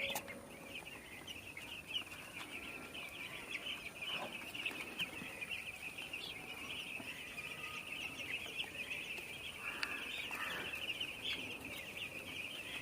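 A flock of broiler chickens calling all at once, many high, short peeps overlapping into a steady chorus.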